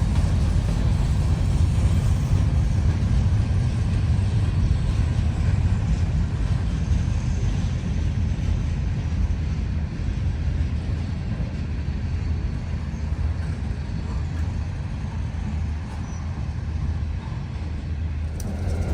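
Freight train's steady, continuous low rumble, with no distinct clanks or horn standing out.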